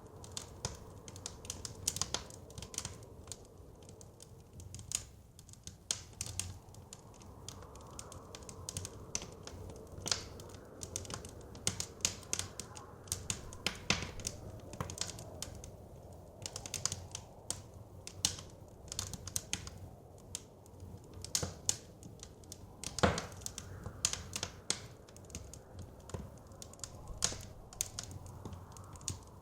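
Wood fire crackling with many irregular sharp pops, over soft blizzard wind that makes a low steady rush. One pop, about three-quarters of the way through, is louder than the rest.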